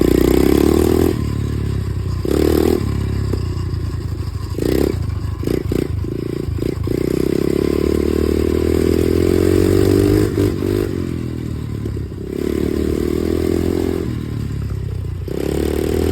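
Dirt bike engine being ridden hard, the revs rising and falling again and again as the throttle is opened and closed, with one longer pull up in the middle. Rattling and scraping, and a rush of wind, run under it.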